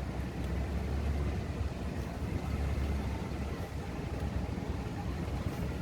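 Car moving along a road: a steady low rumble of engine and road noise.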